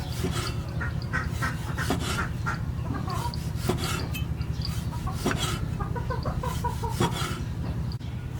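Chickens clucking in short, scattered calls, over a steady low hum.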